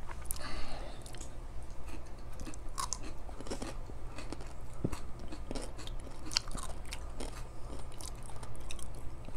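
Close-up eating sounds: people chewing and biting food, with small irregular clicks and crunches.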